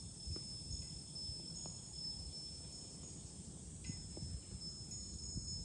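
Wind buffeting the microphone with a low rumble, under the high ringing notes of a Japanese furin wind chime and the thin drone of cicadas.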